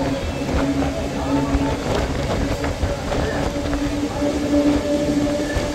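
Electric suburban local train running, heard from on board: a steady rumble of wheels on the rails under a constant low hum, with a few scattered clicks.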